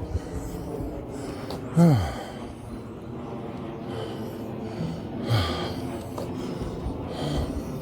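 A person breathing out audibly as two sighs that fall in pitch: a loud one about two seconds in and a softer one about five seconds in.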